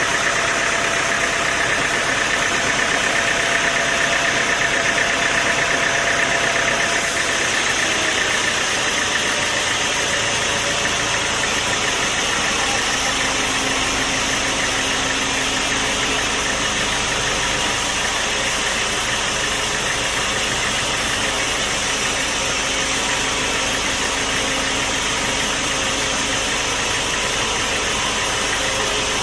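Sawmill machinery running steadily, a constant loud mechanical noise whose pitch content shifts slightly about seven seconds in.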